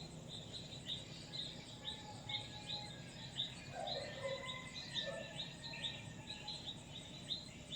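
Birds chirping: a steady run of short high chirps, about three a second, with a couple of lower calls about four and five seconds in, over a low background hum.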